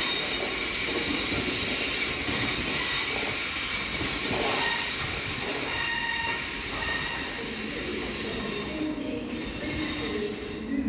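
Freight hopper wagons rolling past on the rails, wheels squealing with several steady high tones over the rumble; the squeal thins out near the end as the last wagons go by.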